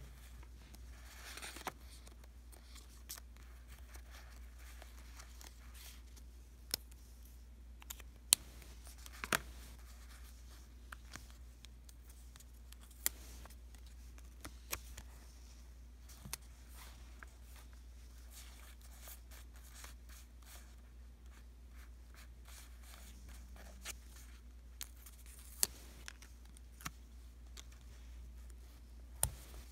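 Stickers and paper being handled and stuck down: soft peeling and rustling with scattered sharp ticks and taps, the loudest about eight seconds in.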